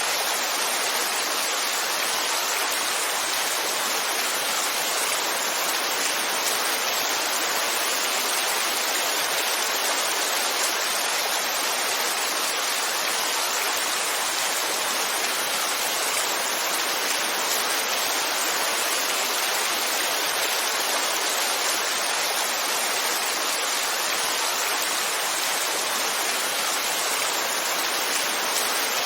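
Heavy rain falling steadily: a dense, even hiss with no single drops, thunder or other events standing out.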